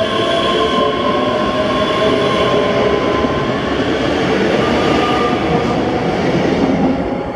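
ScotRail electric passenger train moving along the platform, a loud rumble of wheels on rail with a few steady whining tones over it.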